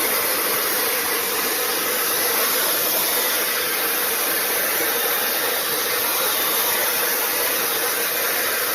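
Fanttik AirWave hair dryer styler blowing on its high heat, high power setting: a steady rush of air with a faint steady tone under it.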